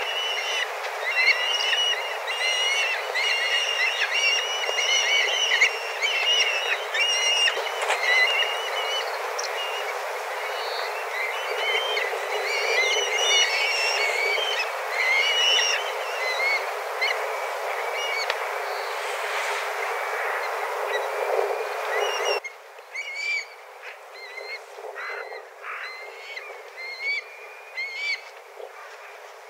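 A flock of black kites calling over one another, many high whistling cries overlapping, over a steady noise. About three-quarters of the way through the noise cuts off suddenly and the calls become fewer and fainter.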